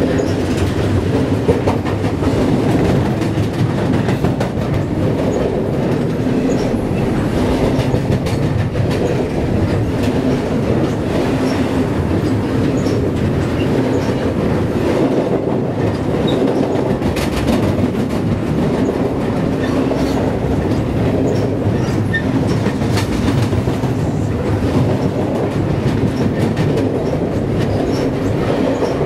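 A CSX intermodal freight train rolls over a steel trestle with wooden ties, heard from directly beneath the deck. It makes a loud, steady rumble of wheels and cars on the bridge, with scattered clicks throughout.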